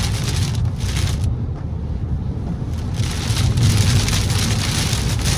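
Heavy rain pelting a moving car over a steady low rumble of road and tyre noise. The hiss of the rain dulls for a moment about a second in.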